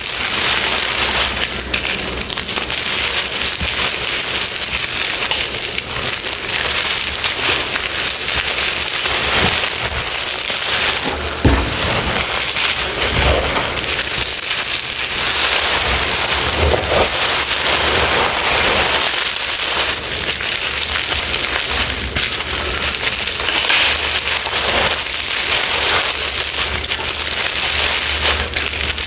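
Crunchy confetti being crushed, a dense, continuous crackling and crunching made of many fine cracks.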